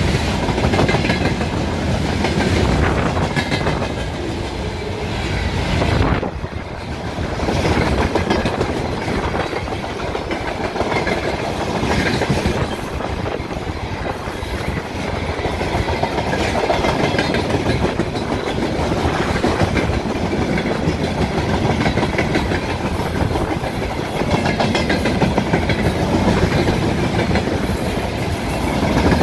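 Freight train wagons rolling past at speed, their wheels clattering steadily over the rail joints.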